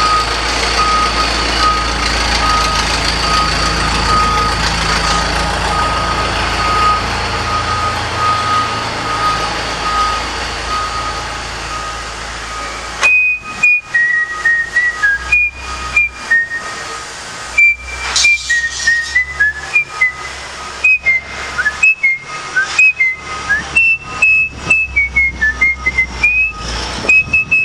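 A vehicle's reversing alarm beeping at an even pace over a low engine rumble for the first twelve seconds or so; then, about thirteen seconds in, someone whistles a tune, high notes stepping up and down to the end.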